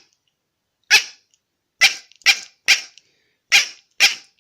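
Acme crow call blown to imitate a jackdaw: six short, clipped calls in an uneven rhythm, several in quick succession.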